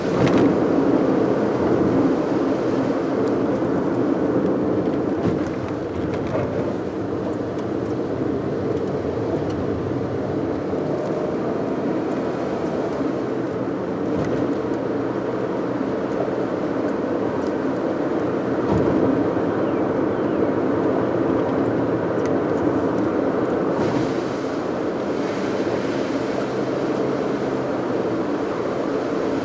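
Steady driving noise of a car on the road: engine hum under an even rush of tyre and road noise that holds at a constant level.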